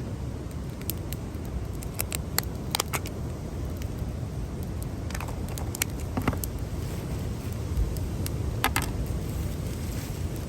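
Steady low outdoor rumble of wind and ocean surf, with scattered sharp clicks and metallic clinks of gear being handled, in small clusters about two, five and nine seconds in.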